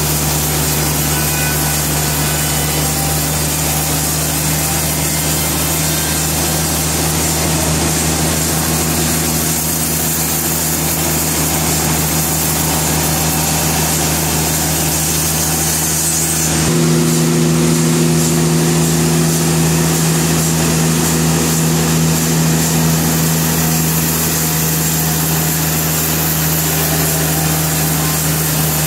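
Sawmill machinery running: a steady low hum from the motor under a wide haze of saw and machine noise. About seventeen seconds in, the tone shifts and the sound gets slightly louder, as the load on the machine changes.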